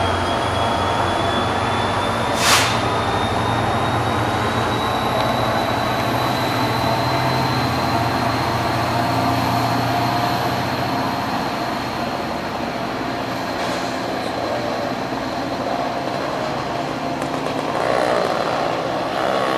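Diesel-hauled commuter train pulling away along the platform, its locomotive at the near end: a steady engine drone under a high whine that slowly rises in pitch. A single sharp clank comes about two and a half seconds in.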